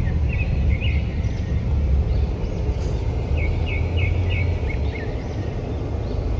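Outdoor background noise with a heavy low rumble, and small birds chirping in short, quickly repeated runs.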